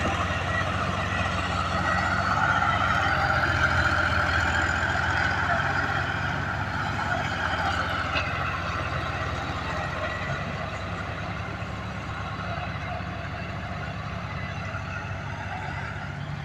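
Tractor diesel engine running steadily, with a higher whine that swells about three seconds in and then slowly eases off.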